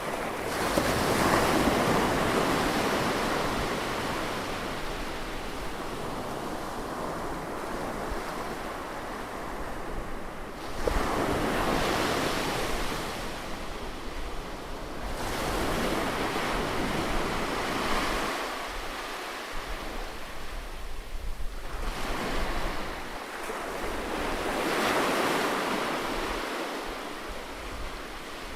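Sea waves breaking and washing up on a beach, in four slow surges that each swell and fade over several seconds, over a steady low rumble.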